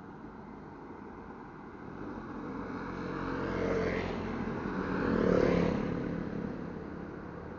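Motor vehicles passing close by, one after another. Two swells of engine and road noise rise and fall in pitch as they pass, about four and five and a half seconds in, over a steady low engine rumble.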